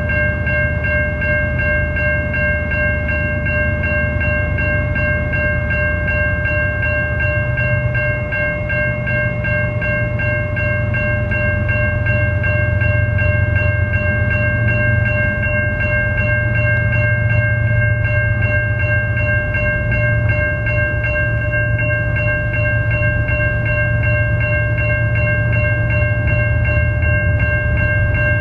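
Level-crossing warning bell ringing with a fast, even beat, over the low rumble of a passing train that grows a little louder about halfway through.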